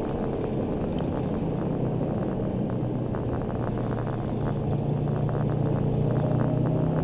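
Subaru Impreza WRX STI's turbocharged flat-four engine heard from inside the cabin while driving, a steady low drone with road noise that grows a little louder about halfway through.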